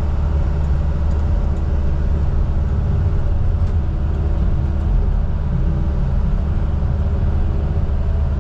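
Steady vehicle engine drone, a loud, unbroken low rumble with a constant hum.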